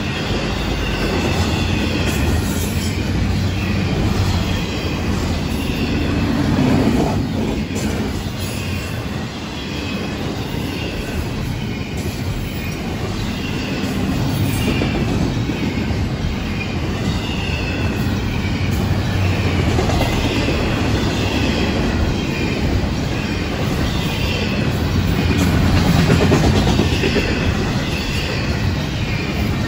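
Double-stack intermodal freight cars rolling past on the track: a steady rumble of steel wheels on rail, with a wavering high squeal from the wheels and an occasional click at the rail joints.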